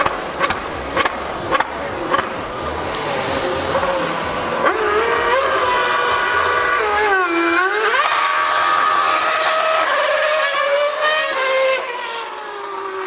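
2013 Formula One car's V8 engine at high revs. Its pitch climbs, dips sharply and climbs again through gear changes, then falls away near the end. A few sharp clicks sound in the first two seconds.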